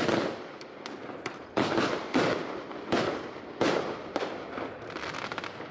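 Fireworks display: aerial shells bursting in a series of about six loud bangs over the first four seconds, each trailing off in a rumbling echo, with smaller crackles between them.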